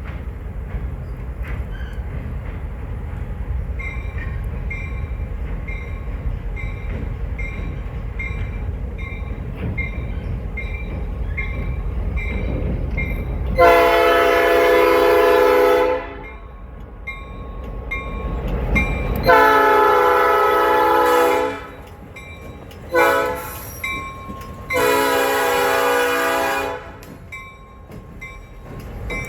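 A locomotive passes with a steady low rumble while a bell rings about once a second. Its horn then sounds the grade-crossing pattern: two long blasts, a short one, and a final long one.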